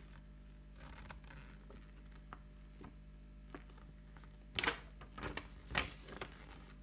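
Hands handling the contents of a product box: faint rustling and light taps, with a couple of sharper clicks of plastic parts near the middle and later on.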